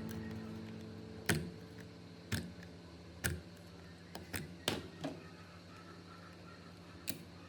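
About seven sharp clicks and taps at irregular spacing, small hard parts being handled or set down while an old Shimano fishing reel is worked on.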